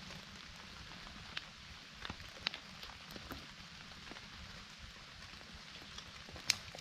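Rain falling steadily, with scattered sharp drops ticking on nearby surfaces; one drop lands louder about six and a half seconds in.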